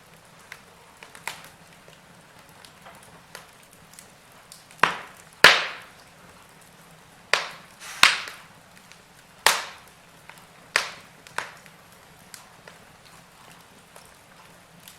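Burning logs crackling in a fireplace: scattered sharp pops over a faint steady hiss. A run of loud snaps comes through the middle, with fainter crackles before and after.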